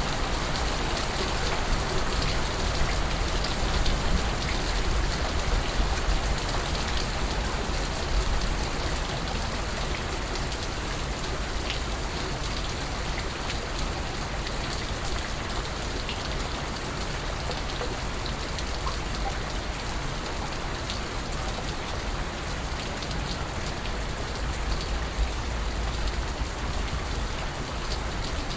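Steady rain falling on surfaces, an even hiss with scattered individual drops ticking and a low rumble underneath.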